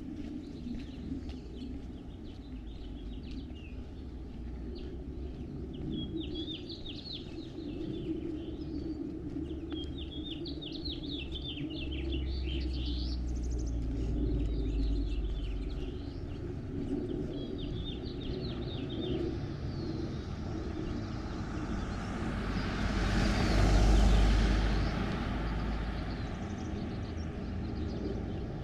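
Songbirds chirping in short repeated trills over a low steady outdoor rumble; about two-thirds of the way in a car passes, its tyre noise swelling to the loudest point and fading away.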